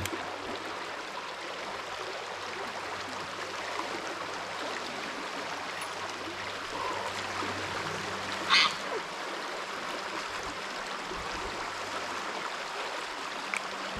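Steady rushing of a river's flowing water. One short, sharp sound cuts through it about two-thirds of the way in.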